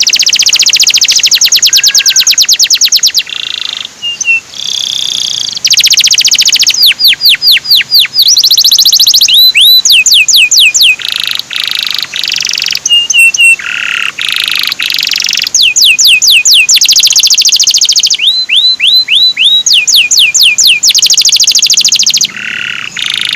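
Male canary singing loud, fast rattling trills that alternate with runs of quick downward-sliding 'cuit' whistles. This is a canary master song of the kind played to young canaries to teach them to sing.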